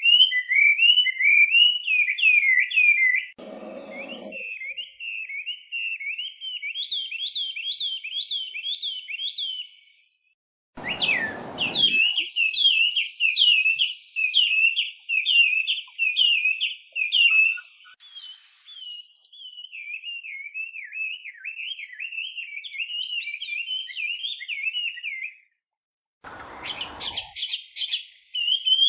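Chinese hwamei (laughingthrush) singing: long runs of fast, repeated whistled notes, each figure repeated many times before switching to another. The song breaks off abruptly every several seconds, twice with a short silence, as separate takes are spliced together.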